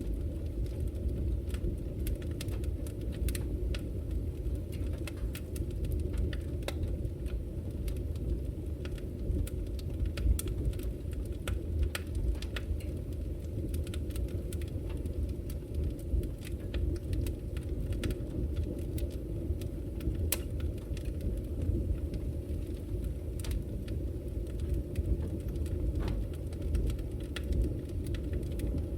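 Fire burning in a fireplace: a steady low rumble with irregular sharp crackles and pops throughout.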